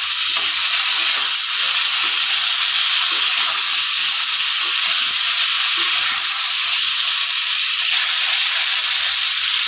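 Potato wedges and sliced onion sizzling steadily in hot mustard oil in a wok, stirred with a metal spatula.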